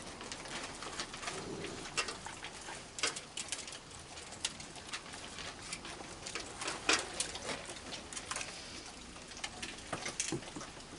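A group of raccoons feeding at close range: irregular clicks, crunches and shuffles, with soft low cooing calls mixed in.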